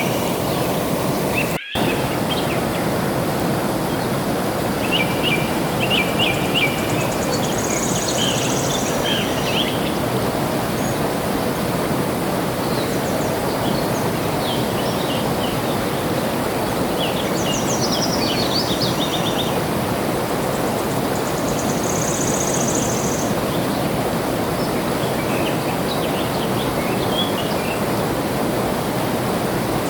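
Steady rush of flowing water with small birds chirping and twittering over it, including a few short high trills. There is a momentary break in the sound about two seconds in.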